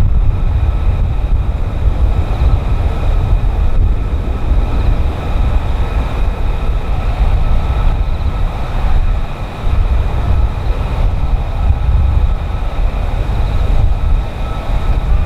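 Jet engine of an F-35B fighter running loudly: a steady deep rumble with a high whine held on a few steady pitches throughout.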